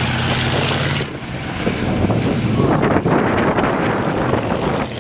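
Monster truck engine running with a steady low note for about a second, then an abrupt change to a loud, rough rumble buffeted by wind on the microphone.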